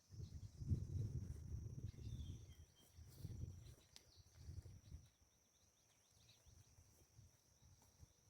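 Faint low rustling and bumping that dies away after about five seconds, under a steady high-pitched insect buzz.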